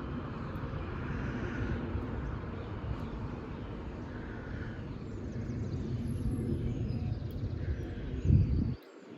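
Steady low outdoor rumble. A brief louder low burst comes near the end, after which the sound drops off sharply.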